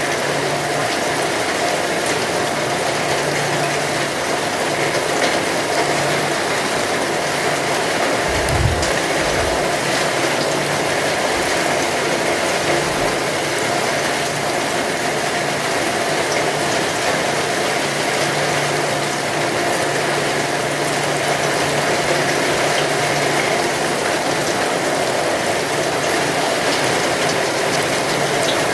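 Heavy rain falling steadily, a dense, even hiss. A brief low thud sounds about eight to nine seconds in.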